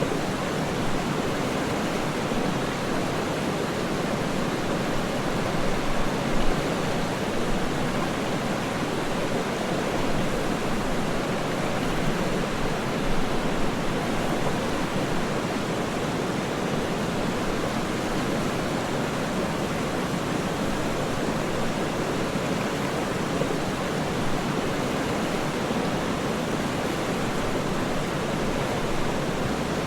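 Waterfall: a steady, even rush of falling water, with a few brief swells.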